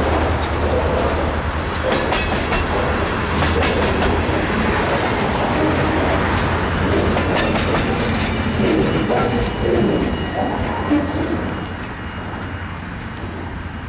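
Rear cars of a freight train, centerbeam flatcars loaded with lumber, rolling past: wheels clacking over the rail joints over a steady low rumble. The sound drops off about eleven seconds in as the last car passes and the train moves away down the track.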